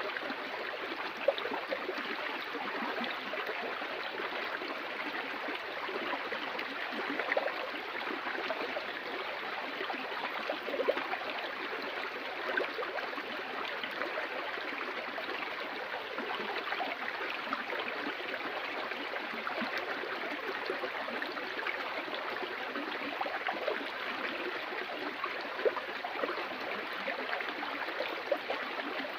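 Stream water flowing steadily over rocks, with small splashes and gurgles.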